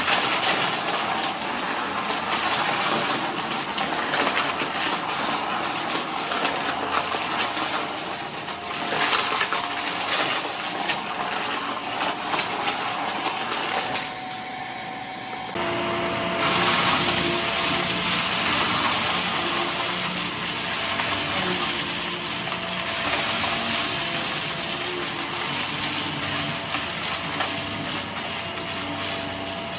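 Vacuum cleaner running and sucking up scattered debris, with many small pieces clicking and rattling through the intake. About halfway through the sound dips briefly, then comes back louder with a steadier motor hum.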